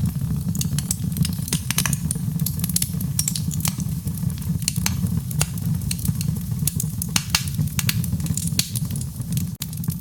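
Wood fire burning, with frequent sharp, irregular crackles and pops over a steady low rumble of the flames.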